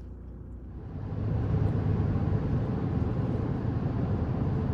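Road noise inside a moving car, a steady low rumble and hiss that grows louder about a second in and then holds steady.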